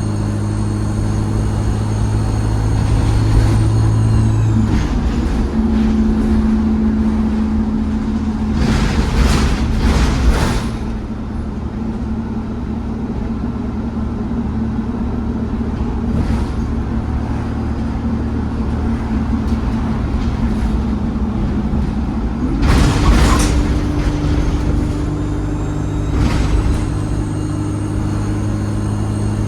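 ADL Enviro 200 bus running, heard from inside the cabin: the diesel engine and its high turbo whistle drop away about four seconds in as the bus eases off. Bursts of air hiss come around ten seconds in and again about 23 seconds in, then the engine note and the turbo whistle climb again as it pulls away.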